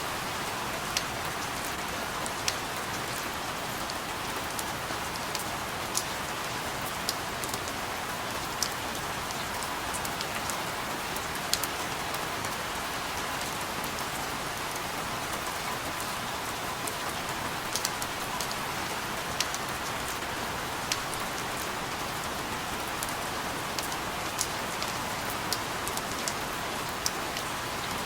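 Steady rain falling on a surface, an even hiss with scattered sharp taps of individual drops landing close by.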